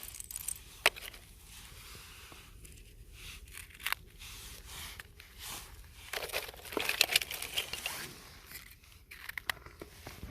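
Crinkling, scraping and tearing sounds with scattered sharp clicks. There is one sharp click about a second in and a louder, busier stretch between six and eight seconds in.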